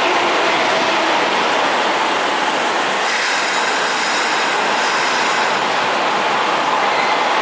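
Keisei 3400 series electric train moving along the platform, a steady rumble of wheels on rail. The wheels squeal high for a couple of seconds about three seconds in.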